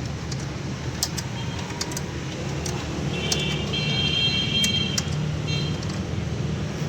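Metal tools clicking and clinking now and then over a steady low hum, with a thin high whine for about two seconds midway.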